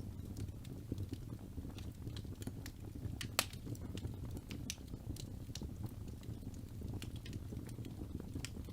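Wood fire burning in a fireplace: a steady low rumble of flames with frequent small crackles and pops, and one louder pop about three and a half seconds in.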